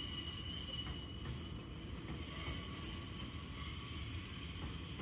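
E001-series Train Suite Shiki-shima moving on its diesel engine-generators during yard shunting: a steady low engine rumble with faint steady higher tones above it.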